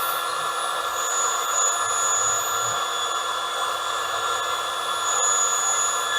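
Electric air pump running steadily, inflating an air mattress that is nearly firm, with a constant whine.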